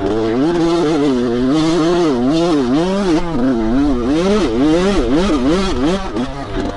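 Dirt bike engine revving up and down again and again as the throttle is worked while riding, its pitch rising and falling about twice a second.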